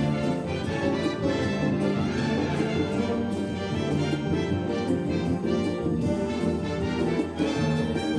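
Brass band playing an instrumental passage of a song, with trumpets, trombones and horns, without singing.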